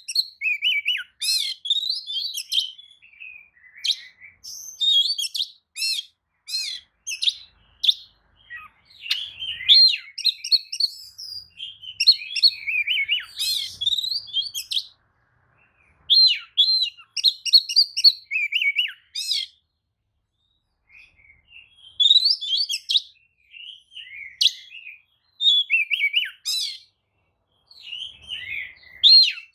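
Oriental magpie-robin singing: rapid, varied phrases of high whistles and chirps, broken by short pauses and a few longer silences.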